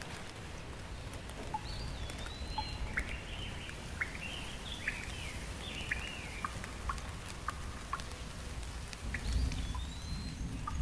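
Steady rain with scattered drips while birds call over it: a sliding whistle early on and again near the end, with short chirps and swooping calls in between. A low rumble builds near the end.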